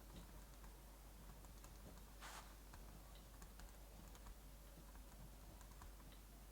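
Faint crackling fireplace ambience: sparse small crackles over a low steady hiss, with one brief louder crackle a little over two seconds in.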